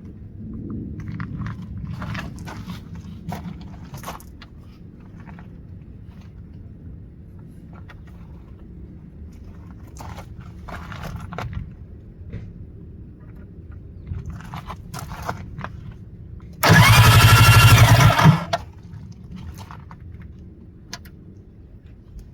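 Yamaha SJ700 stand-up jet ski's two-stroke engine being started: scattered clicks and clatter, then a loud burst of about two seconds as it is cranked and fires, starting well past halfway, before it drops away again.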